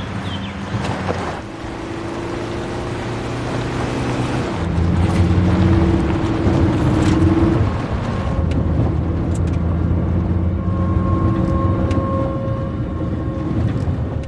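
A vehicle's engine running steadily under a wash of road or wind noise, rising a little in pitch about halfway through and getting louder from about four and a half seconds in.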